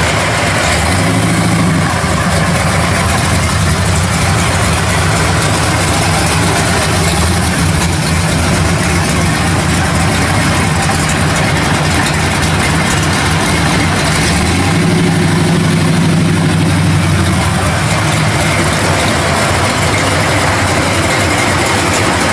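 1970 Chevrolet Chevelle SS V8 idling steadily; its note shifts and grows stronger about fifteen seconds in.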